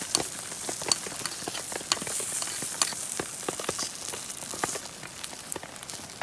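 Okonomiyaki batter sizzling on a hot griddle: a steady hiss with many irregular sharp clicks and taps.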